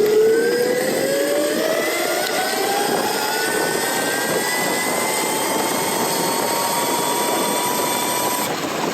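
Lightning Rods electric bike drive motor whining, its pitch climbing slowly and steadily as the titanium e-bike accelerates, over a steady rush of wind and tyre noise.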